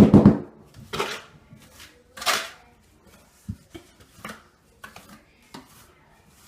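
Hand trowel scraping and tapping through a layer of thinset mortar on a subfloor in short, separate strokes, the loudest about two seconds in.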